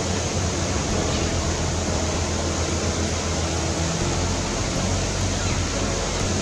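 Steady rushing background noise with a low hum underneath, unchanging throughout; no distinct bird calls stand out.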